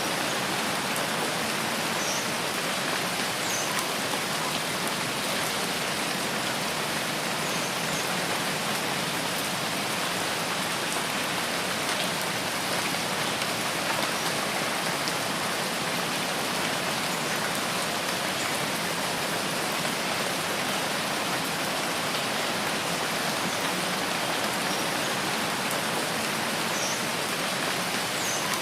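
Steady rain falling in a rainforest: a dense, even hiss of drops with no breaks, and now and then a faint, short, high chirp above it.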